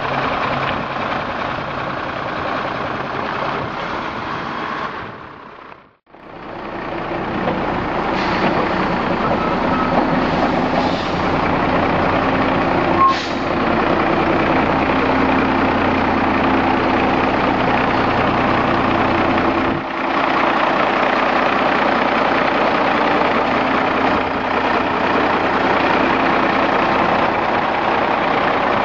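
Heavy diesel engine of a 1995 Peterbilt roll-off truck running steadily. About six seconds in the sound drops out briefly, then the engine comes back a little louder.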